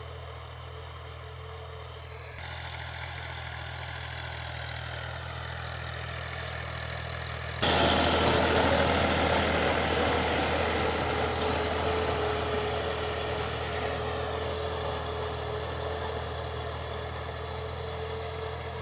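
Tractor diesel engine running steadily while pulling a disc harrow through a field. About eight seconds in it suddenly gets much louder, then slowly fades.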